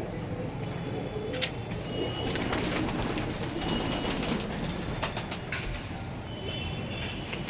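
Saharanpuri pigeons cooing continuously, with a few sharp taps scattered through.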